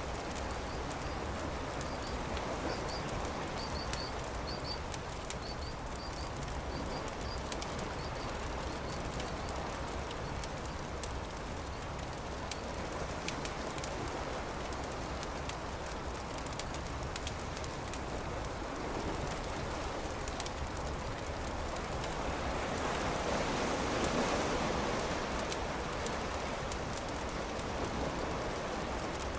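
Campfire crackling with many small sharp pops over a steady wash of beach surf that swells about two-thirds of the way through. A bird chirps a few times in the first several seconds.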